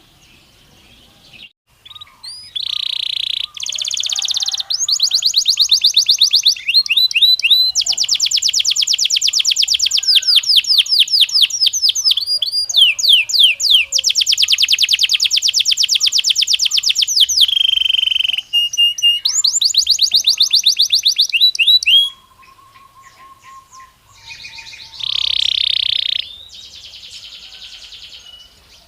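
Belgian canary singing: long, very fast trills and rolling phrases from about two seconds in, breaking off at about twenty-two seconds, then a shorter phrase near the end.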